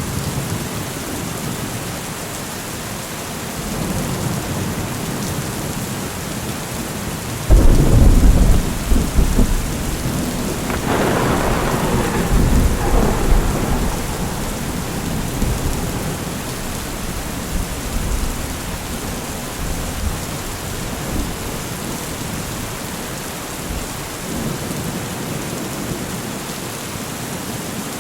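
Steady rain with thunder: a sudden loud thunderclap about a third of the way in, rumbling and crackling for several seconds before it fades, then a softer rumble later on.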